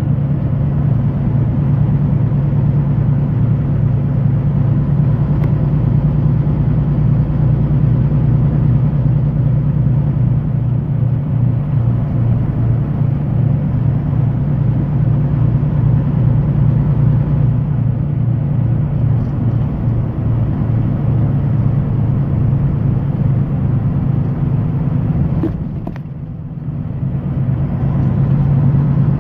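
Semi-truck diesel engine running steadily under way, a low pulsing drone. The sound drops for a moment a little before the end, then comes back to the same level.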